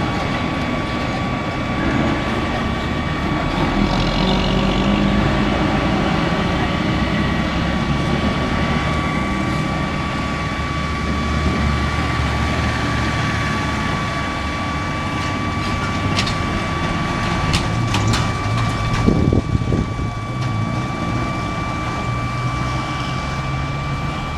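Heavy road vehicles running, with a steady engine rumble and road noise that shifts as they move. A few sharp clicks come near the end.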